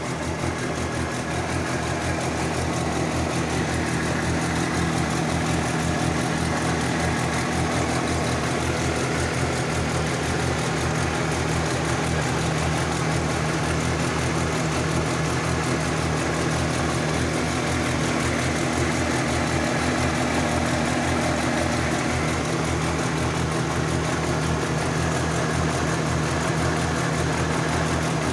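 VW Mk2 Golf G60 Rallye's supercharged 1.8-litre four-cylinder engine idling steadily after a cold start.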